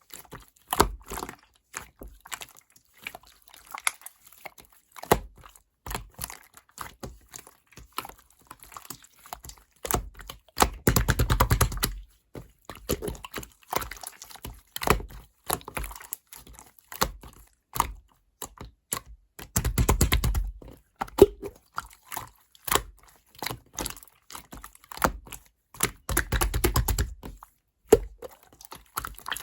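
Slime being squished and kneaded by hand: a string of small sticky clicks and air-bubble pops, with three longer stretches of rapid crackling pops spread through.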